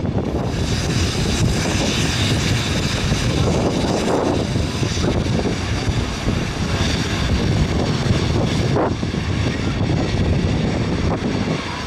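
Jet airliner engine noise under heavy wind buffeting on the microphone, a steady loud rush; a hiss comes in at the very start.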